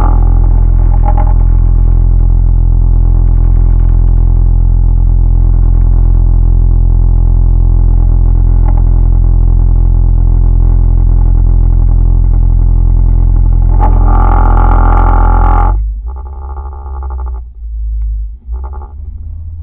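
Engine running at a steady speed with a loud, unchanging drone that cuts off suddenly near the end.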